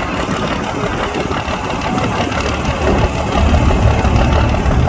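A big engine of a truck or tractor puller running loud and steady, with its low rumble growing heavier from about three and a half seconds in.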